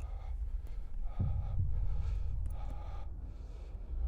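Wind rumbling on the microphone, with faint voices in the background.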